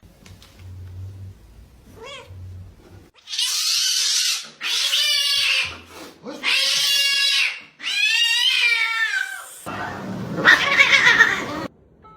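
A domestic cat yowling, four loud drawn-out calls with a wavering pitch, followed near the end by a rough, noisy stretch with a few sharp knocks.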